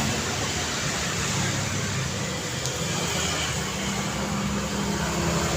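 Steady highway traffic: the rush of tyres and the low engine hum of passing vehicles, with one engine note holding steadier in the second half.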